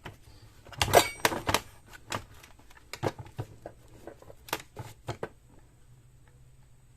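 Irregular clicks and knocks of a hand rocking a two-stroke hedge trimmer engine's carburetor back and forth, which shifts the whole cylinder on its base: the cylinder-to-crankcase bolts are loose, causing an air leak and loss of suction. The clicks are densest about a second in and stop after about five seconds.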